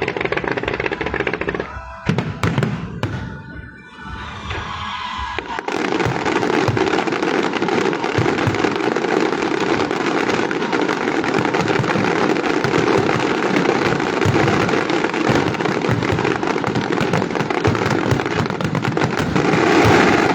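Fireworks going off: a few separate bangs at first, then from about six seconds in a dense, unbroken rapid crackling of many small explosions.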